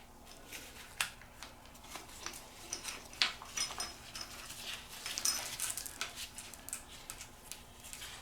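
Scattered light metallic clicks and clinks of small engine parts and hand tools being handled, a few of them ringing briefly.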